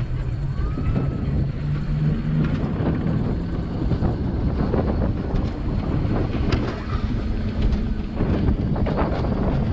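A vehicle in motion: a steady low rumble with many short clicks and rattles.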